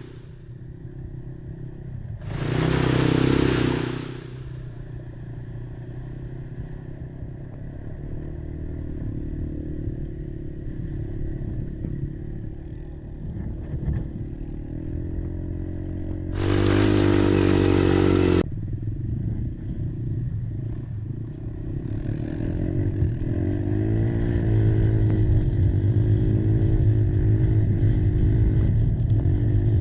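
Quad engine, a Kymco Maxxer 300, running on a rough off-road trail with its pitch rising and falling as the throttle changes, and some rattle of the machine. There are two louder surges, about two seconds in and again around sixteen seconds in.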